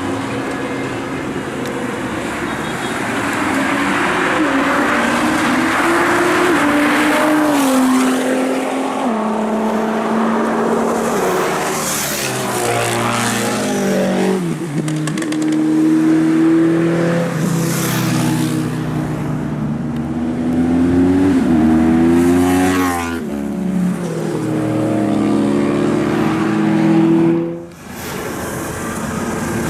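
Sports car engines revving and accelerating through the gears, the pitch climbing and then dropping at each shift, several times over. The sound drops out briefly near the end.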